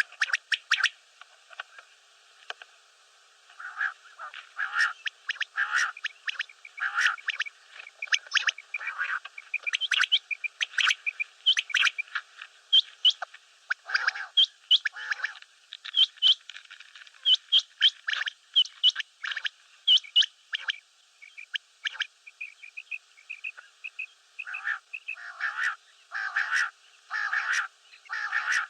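Common quail calling: a quick, irregular stream of short, clipped calls repeated over and over.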